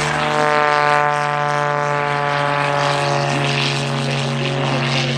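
Single-engine aerobatic propeller plane flying past, its engine and propeller droning loudly with the pitch falling slightly as it goes by.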